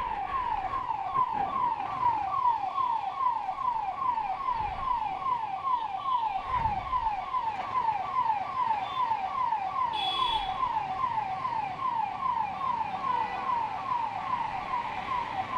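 Ambulance siren wailing in a fast repeating falling sweep, about three sweeps a second, from an ambulance stuck in a traffic jam.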